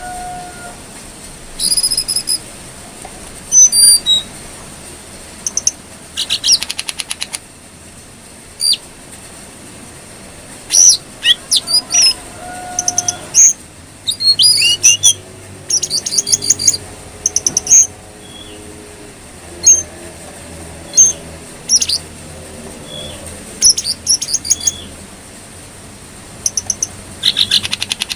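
Jongkangan coklat songbird calling: scattered short, high whistled notes and sharp chirps in quick phrases, broken by a few fast rattling chatters.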